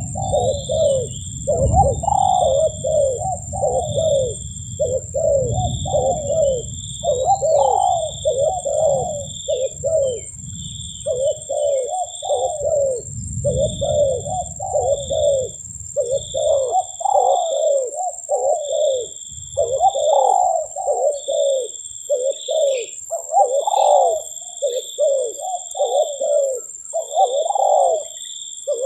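Spotted dove (tekukur) cooing over and over in quick repeated phrases, about two coos a second. Short high piping notes repeat in the background, with a steady high buzz throughout and a low rumble that dies away a little past halfway.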